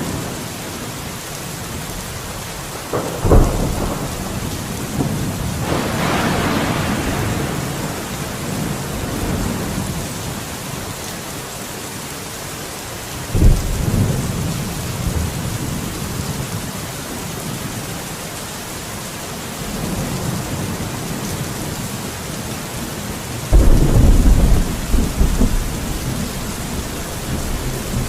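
Steady rain with thunder. A sharp thunderclap about three seconds in rolls on into a rumble, another clap comes about halfway through, and a long rolling rumble near the end is the loudest part.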